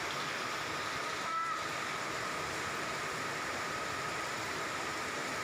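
Steady hiss of rain falling, with one brief chirp from a blue-crowned hanging parrot about a second in.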